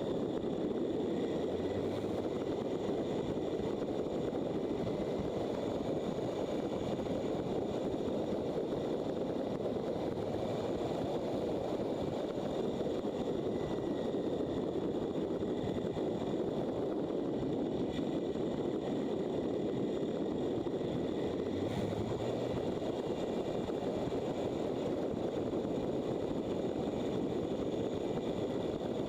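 Motorcycle running at a steady cruise, its engine noise mixed with steady wind rush, with no change in speed.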